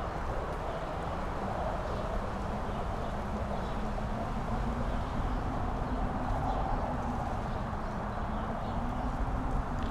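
Strong wind blowing steadily, with a low rumble and a howl that slowly wavers up and down in pitch.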